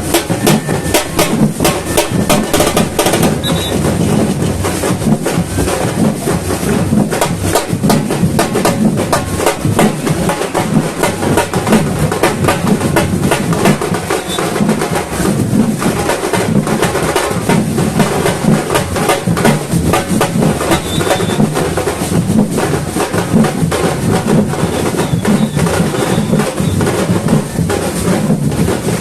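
Samba batucada percussion ensemble playing a fast, dense, steady rhythm of bass drums and snare drums with high, sharp percussion strikes on top.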